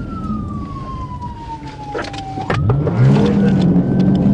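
Police car siren wailing down in pitch, then a few sharp clicks. About two and a half seconds in, a vehicle engine revs up hard and becomes the loudest sound as the vehicle accelerates.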